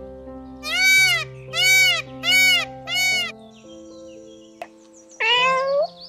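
Indian peafowl (peacock) giving a series of four loud, arching calls less than a second apart, then a cat meowing once with a rising pitch near the end, over steady background music.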